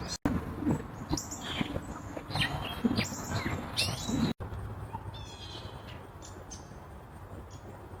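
Birds chirping and calling in short notes, with a quick run of rapid notes about five seconds in. The sound cuts out abruptly twice.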